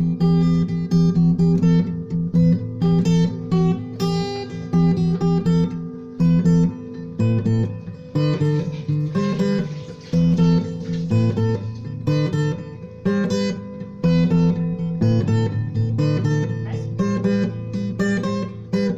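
Instrumental acoustic guitar music: a steady run of picked notes over repeating bass notes.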